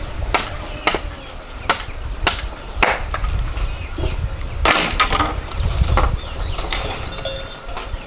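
A series of sharp chopping or knocking strikes, irregular and roughly half a second apart at first, with a louder cluster about five seconds in, over a low rumble.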